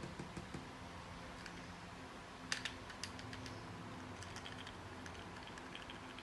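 Scattered light clicks and taps of small hard objects being handled, with a sharper click about two and a half seconds in and a run of quick light ticks near the end, over a faint steady hum.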